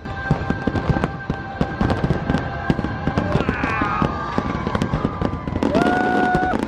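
Fireworks crackling and popping in rapid, dense succession, with a few held and gliding whistle-like tones over them.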